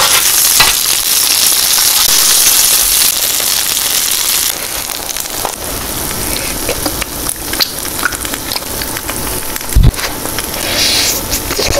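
Cheese-filled glutinous rice cakes and buns sizzling on a hot electric griddle, a steady hiss that drops in level about four and a half seconds in. Small clicks of metal forks and eating sounds come through it, and a single low thump about ten seconds in.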